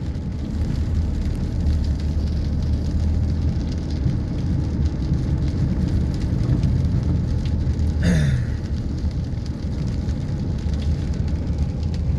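Heavy rain falling steadily in a rainstorm, with a deep, continuous rumble under it. A brief sound falling in pitch cuts in about eight seconds in.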